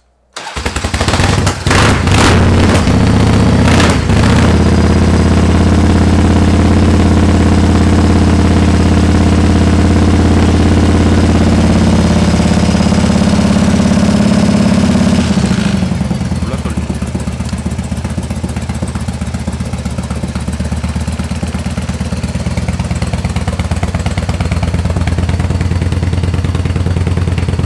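Carbureted 1996 Harley-Davidson V-twin engine starting: it catches about half a second in with a few sharp knocks over the first few seconds, then runs at a fast idle. About fifteen seconds in it drops to a slower, quieter idle.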